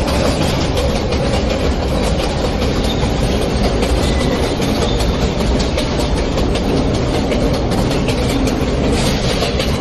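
New York City Subway J train running between stations: a steady loud rumble of wheels on rail, with continual clatter from the rail joints.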